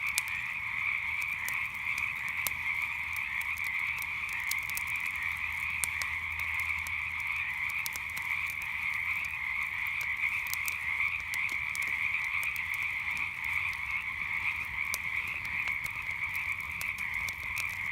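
Dense, steady chorus of many frogs calling at once, with scattered small pops and crackles from a campfire.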